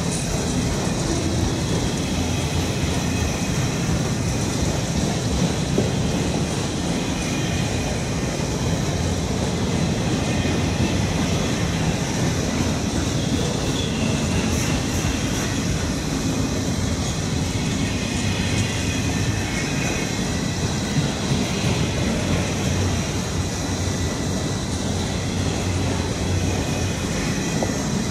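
Freight train of autorack cars rolling past on curved track: a steady rumble and clatter of steel wheels on the rails, with a faint high wheel squeal over it.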